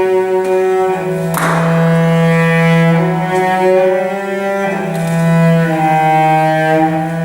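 Slow, sustained bowed-string music: a low note held throughout beneath higher notes that change every second or two.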